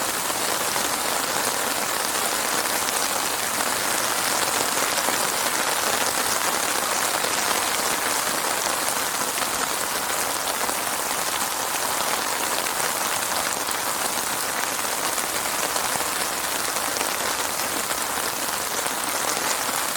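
Steady heavy rain falling on a surface, an even dense hiss of many drops with no thunder.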